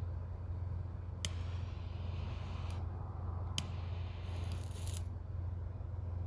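Three sharp clicks and a short rustle over a steady low hum.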